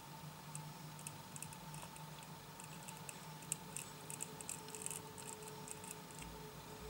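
Faint, irregular small clicks and ticks from a beaded crown and a glue tube being handled while glue is run along the crown, over a steady low background hum.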